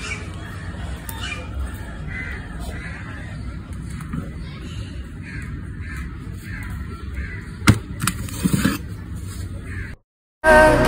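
Birds calling repeatedly, one or two short calls a second, over a steady background hiss, with a sharp knock near the end. The sound then cuts to silence, and music starts.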